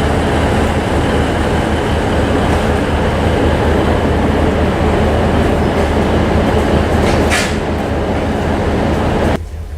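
Train running on the rails with a steady loud rumble; a brief high hiss about seven seconds in. The sound cuts off suddenly near the end.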